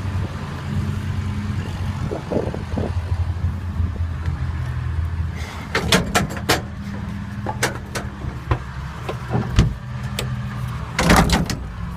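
Tractor engine running steadily, with a run of sharp clicks and knocks from about halfway through and a louder clatter near the end.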